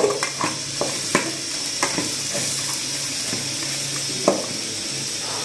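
A thick, nearly dry mutton masala sizzling in an aluminium kadai once its cooking water has boiled off. A metal spatula stirs and scrapes through it, clicking against the pan several times in the first two seconds and once more near the end.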